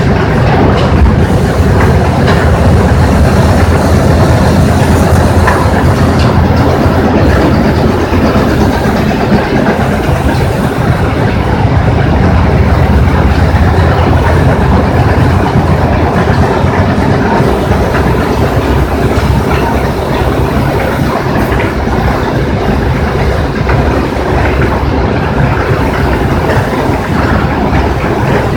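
A crusher running: a loud, steady rumble with continuous rattling and clatter.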